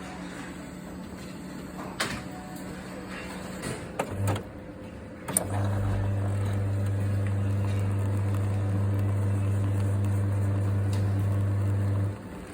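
A few clicks, then a coffee machine starts up with a steady low hum that runs for about six seconds and cuts off sharply near the end.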